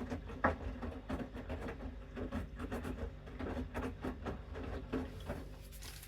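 Bosch Series 6 washing machine in its main wash: the drum tumbles the laundry with irregular patter and clicking over the steady hum of the motor. The tumbling stops near the end, leaving a quieter hum.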